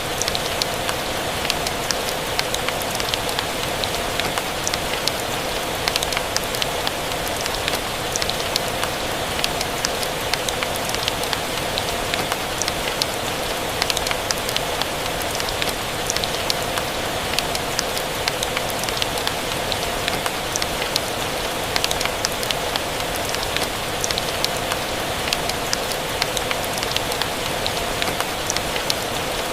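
Steady rain pattering, mixed with the scattered crackle of a wood fire in a fireplace.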